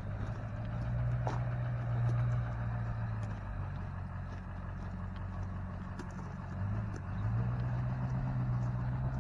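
Truck engine running, picking up speed about a second in, settling back, then speeding up again around seven seconds in.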